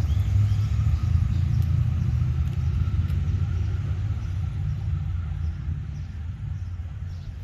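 Twin-turbo Ford XY Falcon's engine and exhaust rumble, steadily fading as the car drives away.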